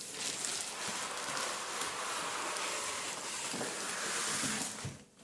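Packaging being handled, a steady rustling and scraping of paper, plastic or cardboard that stops abruptly about five seconds in.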